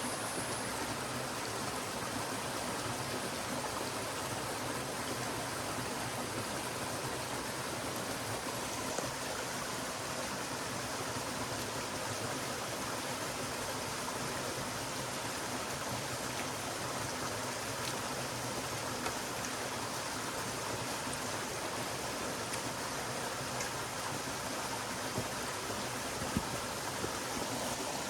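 Forest stream flowing, a steady rushing murmur of water, with a few faint ticks near the end.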